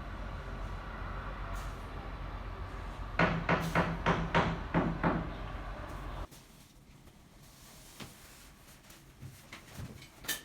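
A quick run of about seven hollow knocks, roughly three a second, like a mallet tapping an SPC floor plank to seat its click-lock joint, over a steady low hum that cuts off suddenly about six seconds in. Faint scattered clicks follow, with one sharp click near the end.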